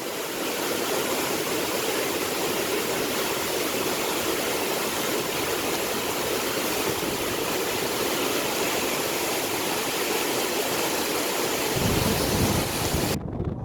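Waterfall of meltwater pounding down into a fast river, a steady dense rush of water. About twelve seconds in, a low wind rumble on the microphone joins it, and just before the end the water sound cuts off abruptly.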